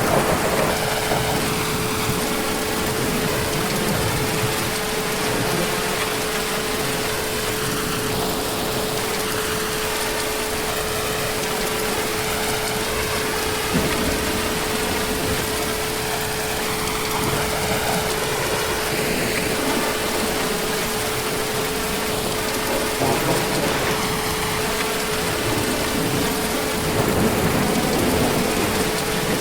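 Heavy rain falling steadily, an even hiss, with low swells that fit distant thunder, the clearest near the end. A steady thin tone runs underneath throughout.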